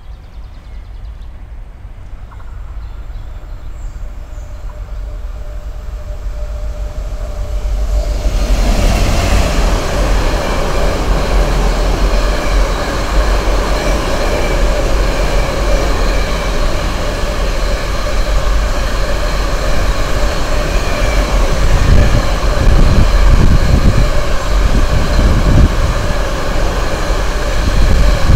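A Class 66 (EMD JT42CWR) diesel locomotive, with its two-stroke V12 engine, approaches and grows louder until it passes close about eight seconds in. The container wagons of its freight train then roll past with a steady rumble and clatter of wheels on the rails, growing heavier near the end.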